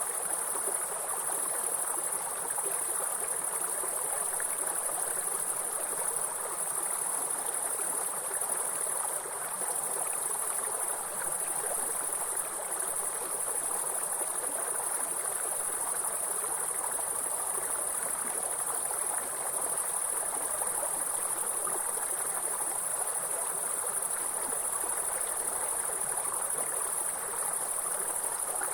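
A continuous high-pitched insect trill, steady and unbroken, over the even rush of running water from a stream.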